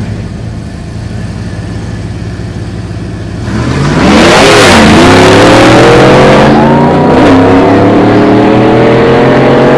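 Car engine running with a steady rumble, then about three and a half seconds in revved hard and loud, its pitch swinging up and down a few times before climbing steadily under sustained throttle.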